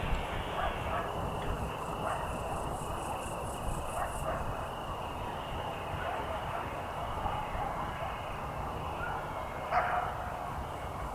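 Evening countryside ambience: a steady chirring of insects, a short run of fast high pulsing about two seconds in, and scattered distant animal calls, with one louder call near the end.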